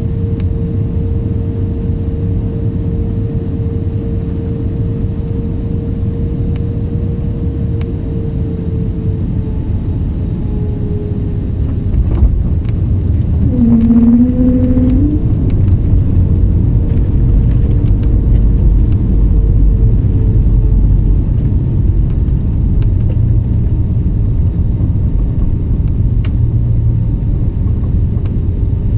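Steady low engine rumble of an IndiGo airliner heard from inside the cabin, with a faint steady tone that drops slightly about a third of the way in. About twelve seconds in the rumble grows louder, with a sharp click and a brief rising tone, and stays louder for about nine seconds before easing back.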